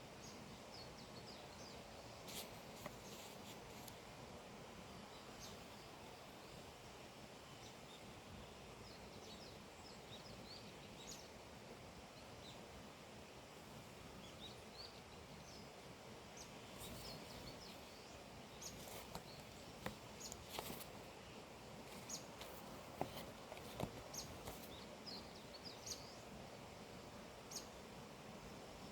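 Small birds chirping faintly now and then over a steady outdoor hiss, with a few soft clicks in the second half.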